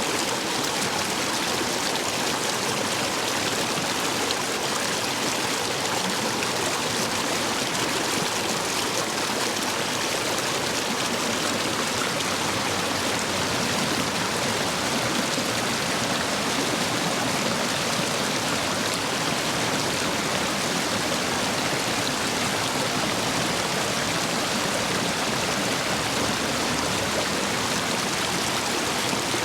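Stream water rushing steadily through the gaps between stepping stones, running full after heavy rain.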